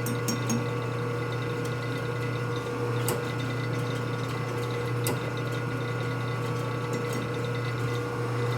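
Steady motor hum of running machine-shop equipment, with a couple of light metallic clicks about three and five seconds in.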